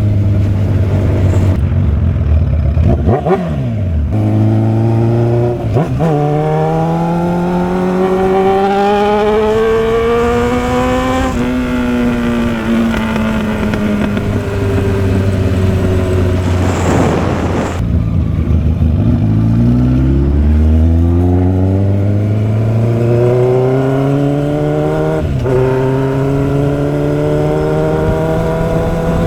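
Motorcycle engine pulling through the gears: the revs climb and drop sharply at each upshift, three times. Around the middle the revs sink slowly as it slows down, with a brief rush of noise, then build again through the gears.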